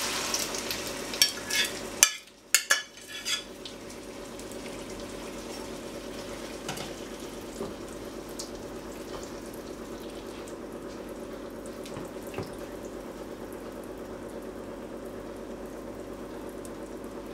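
Beaten egg and potato mixture sizzling steadily in a hot frying pan of oil. In the first few seconds a metal spatula clicks and knocks against the pan a few times as the mixture is spread, then the sizzle carries on with only the odd tick.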